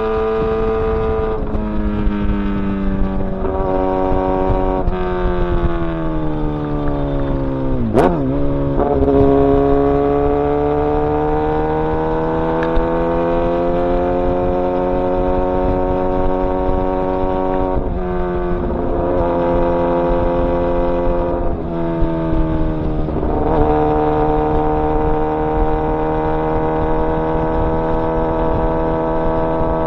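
Kawasaki ZX-10R inline-four engine running on the move. The revs drop in steps through the first several seconds as it slows through the gears, and a sharp click comes about eight seconds in. The revs then climb slowly and hold, with a run of quick gear changes near the middle before it settles to steady cruising.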